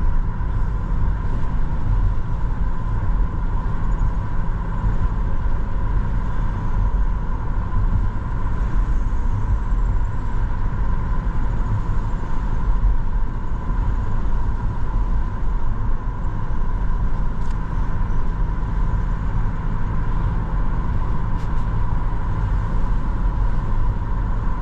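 Steady road noise inside a moving car's cabin: a low, even rumble of tyres and engine at cruising speed, with a faint steady high hum running through it.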